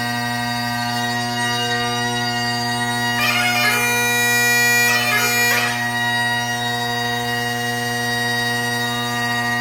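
Great Highland bagpipe playing competition light music: steady drones sounding under the chanter melody, with a brighter, louder stretch from about three to six seconds in.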